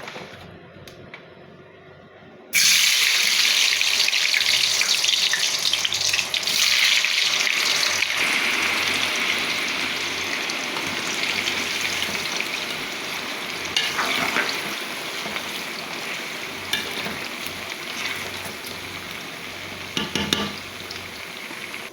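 Cut potatoes going into hot cooking oil for fries: a loud sizzle starts suddenly about two and a half seconds in and slowly dies down as they deep-fry, with a few light knocks later on.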